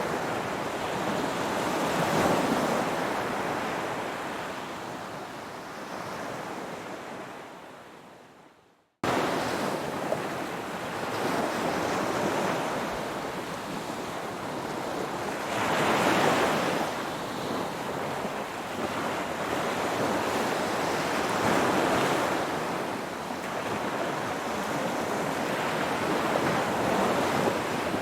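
Ocean waves surging and washing in, swelling and easing off every five to six seconds. The sound fades away to near silence about eight seconds in and comes back abruptly a moment later.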